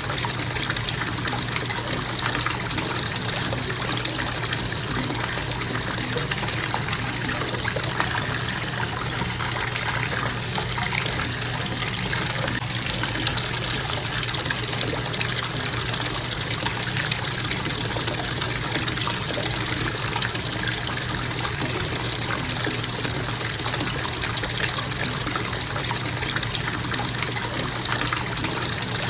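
Bathtub faucet running in a steady, constant stream of water into the tub.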